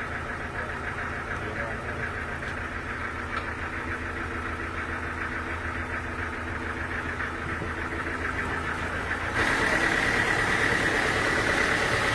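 An engine running steadily with a fast, even pulse. About nine seconds in, it gets suddenly louder, and a hiss with a bright whine comes in on top.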